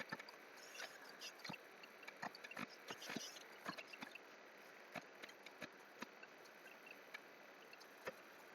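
Faint, irregular clicks and taps of a computer keyboard and mouse, a few a second, over a quiet room.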